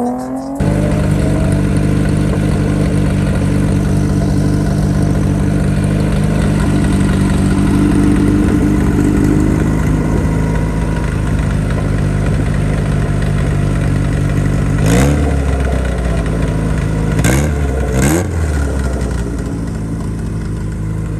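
A Honda car engine runs at a steady idle, then is revved in three quick throttle blips near the end, the first a little longer than the other two.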